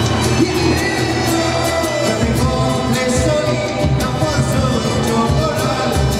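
A band playing live, with singing over a steady beat.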